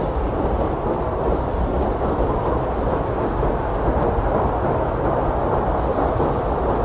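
Strong blizzard wind blowing steadily as a deep, low rumbling rush, without distinct gusts or pauses.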